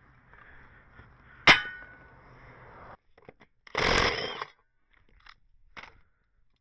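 A sharp metal clang about a second and a half in, ringing briefly. About two seconds later comes a louder rattling scrape lasting under a second, then a few light knocks.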